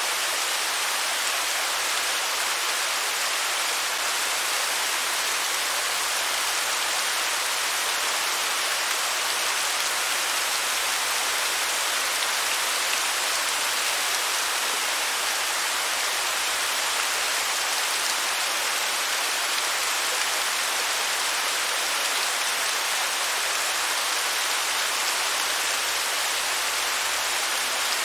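Waterfall: water falling and splashing in a steady, unchanging hiss, bright and airy with little deep rumble.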